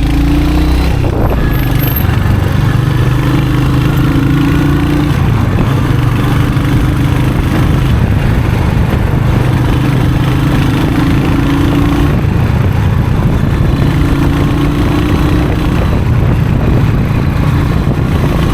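Royal Enfield Hunter 350's single-cylinder engine and exhaust running steadily while riding, its pitch rising a little and easing back several times.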